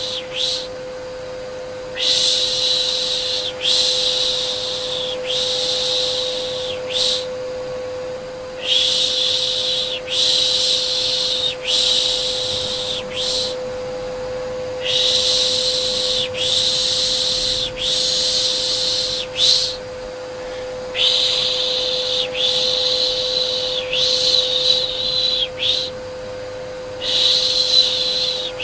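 Repeated 'shh' shushing sounds used to calm a baby, each lasting about a second or two and coming in runs of three or four with short pauses between runs. Under them is the steady hum of a vacuum cleaner.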